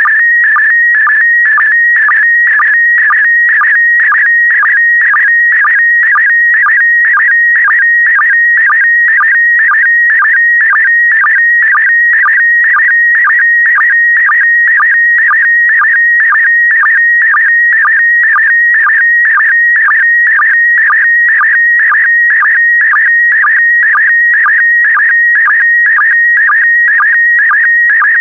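PD120 slow-scan television (SSTV) image signal: a loud, high, warbling tone that shifts pitch rapidly as it encodes picture lines, broken by a short lower sync blip about twice a second. It is an image being transmitted line by line for a decoder.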